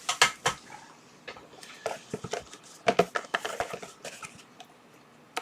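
Hands handling small items and packaging on a workbench: irregular sharp clicks, taps and rustles in a few short clusters, with quiet gaps between.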